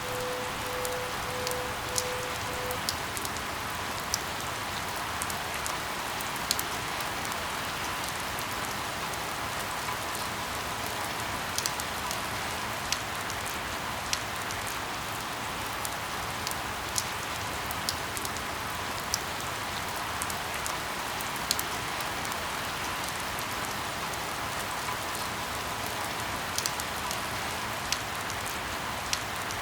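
Steady rain falling, with scattered louder drop ticks standing out from the patter. A faint pulsing tone sounds for the first few seconds.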